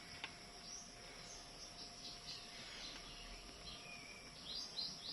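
Budgerigars chirping softly: scattered faint, short, high chirps that fall in pitch, with a quick run of several chirps near the end.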